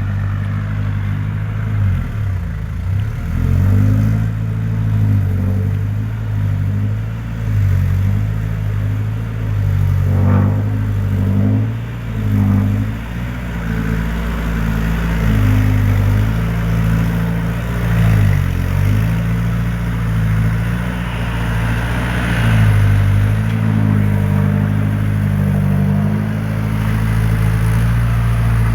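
Mitsubishi Canter truck's diesel engine labouring up a steep climb under a load of about 7 tons. The engine pitch holds steady, then dips and climbs back up several times.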